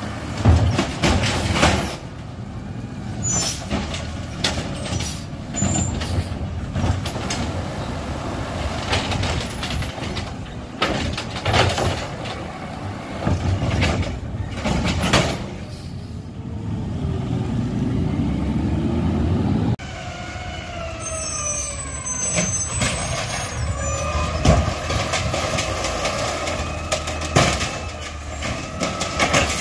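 Garbage trucks at work: diesel engines running with repeated clanks and knocks of bins and machinery. After a sudden cut, whining tones glide up and down over the engine.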